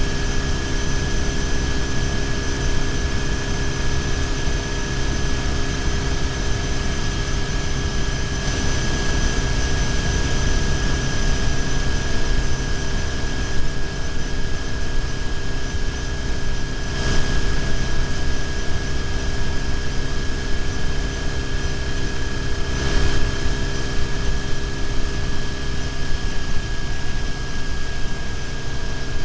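BMW R1150GS flat-twin engine running steadily at highway cruising speed, heard from a bike-mounted camera with heavy wind and road rumble and a steady high whine. Two brief swells of noise come about two-thirds of the way through.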